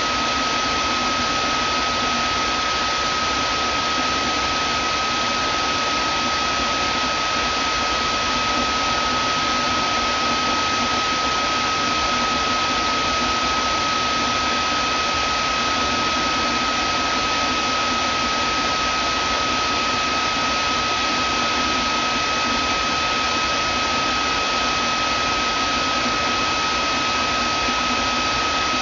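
Vacuum cleaner motor running steadily: an even rushing hiss with a constant high-pitched whine over it.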